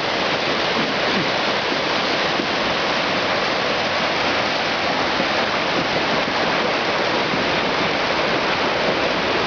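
Floodwater of a small mountain creek in major flood, rushing past in a steady, loud roar.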